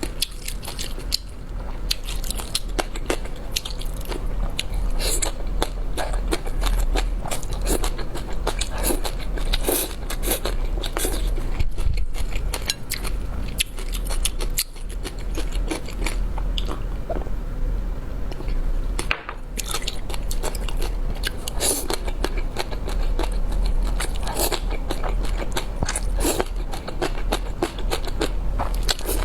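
Close-miked eating sounds of a person chewing spicy udon noodles: a steady run of irregular wet mouth clicks and bites.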